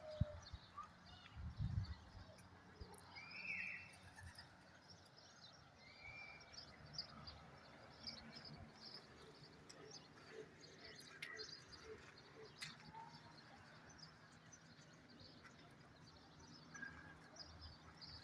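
Faint open-air ambience with scattered short bird chirps and whistled glides, and a soft low thump about one and a half seconds in.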